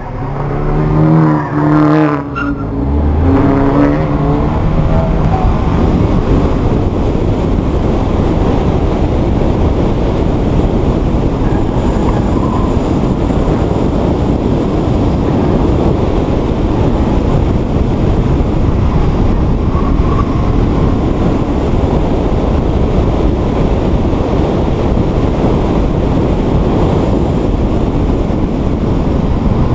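Subaru BRZ's flat-four engine revving hard from a launch, rising in pitch with a break about two seconds in as it shifts up. It then gives way to a steady, dense rush of engine and road noise heard inside the car as it drives the course.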